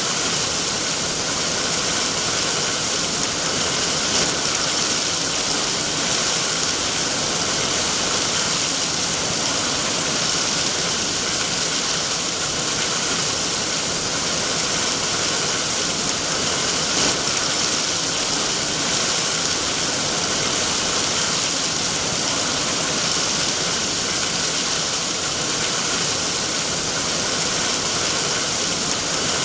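Steady heavy rain: a dense, even hiss that never lets up.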